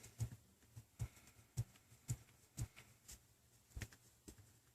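Faint small clicks, about two a second, from a tri-wing screwdriver working the small screws in a tablet's plastic housing.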